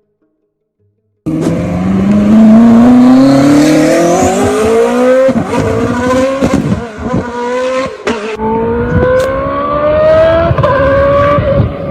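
V8 car engine accelerating hard through the gears, starting suddenly about a second in. Its pitch climbs steadily, drops sharply at each of about four upshifts, and climbs again, with short cracks at the shifts.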